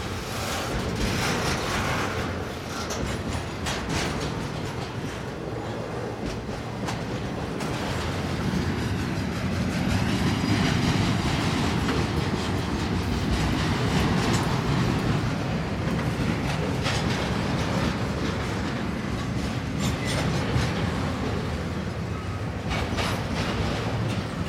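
Canadian Pacific double-stack intermodal freight train rolling past: the well cars' steel wheels rumble steadily and click over the rail joints, the rumble growing louder about a third of the way through.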